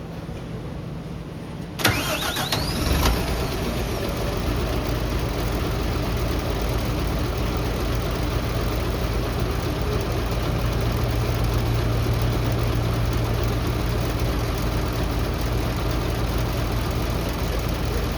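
A city bus engine being started: a brief starter-motor whirr about two seconds in, then the engine catches and settles into a steady idle.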